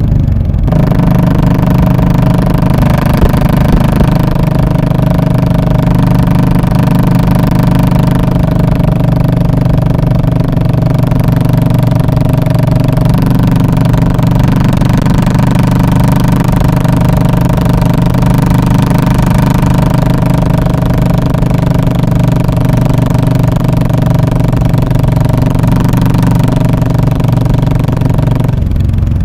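2017 Royal Enfield Classic 500's single-cylinder engine running steadily through its muffler: a loud, even exhaust note.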